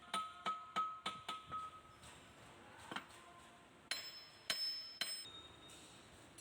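Metal striking metal in sharp ringing taps: about six quick strikes in the first second and a half, one more about three seconds in, and a few louder ones between four and five seconds.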